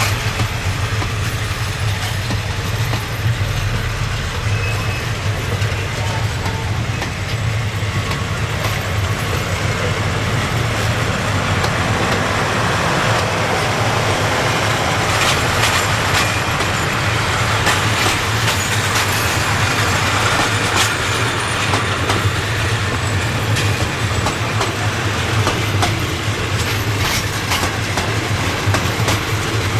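Passenger train running on the rails: a steady low rumble and rolling noise, with wheel clicks over rail joints in the middle stretch.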